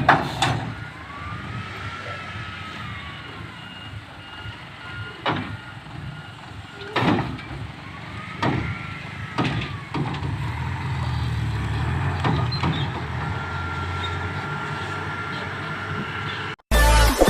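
A loaded Mitsubishi Fuso dump truck's diesel engine runs with a steady low rumble. Several sharp clanks and two brief squeals that rise and fall are heard over it. Near the end it cuts off and music starts.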